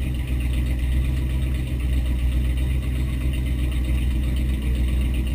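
V8 engine of a mud-racing Jeep idling steadily, heard from inside the cabin.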